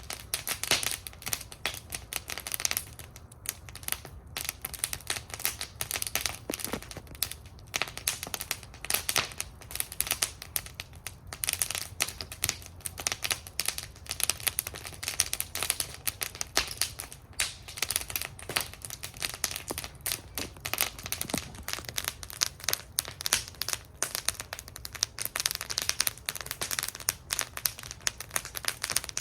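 Wood fire burning in a fire bowl, crackling and popping continuously with many irregular sharp snaps over a low rumble of the flames.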